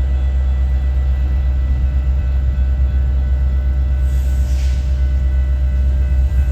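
Train passing close by with a loud, steady low rumble, and a brief hiss about four seconds in.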